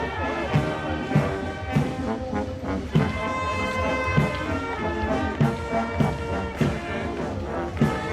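Brass band music with a steady drum beat, a little under two beats a second.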